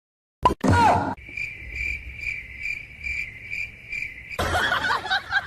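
Cricket chirping in an even pulse, a bit over two chirps a second, after a short loud burst with a falling pitch near the start. Near the end a louder, noisy jumble of sound takes over.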